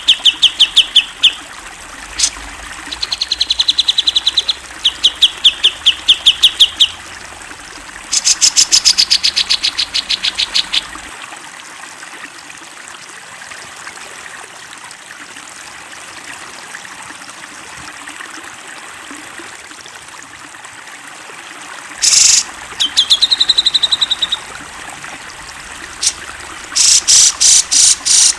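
Cucak jenggot (grey-cheeked bulbul) singing in loud trains of rapid, evenly repeated notes. The trains come in several bursts, then stop for about ten seconds in the middle before the song resumes near the end.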